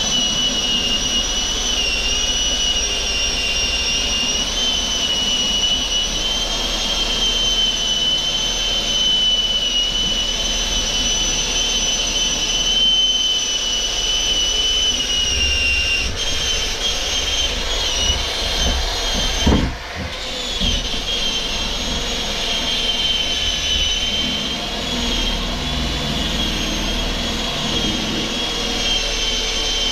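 Electric drill with a sanding wheel running at a steady high whine while sanding a steel axe head held in a vise. About two-thirds of the way through it dips briefly with a sharp knock, then picks back up.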